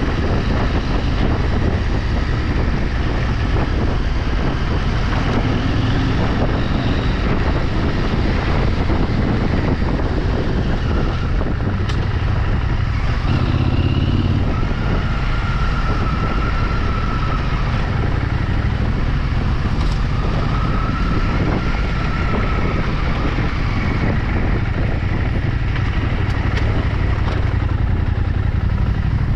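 Vehicle engine running steadily on the move off-road, with a constant low rumble and a faint wavering whine that comes and goes in the second half.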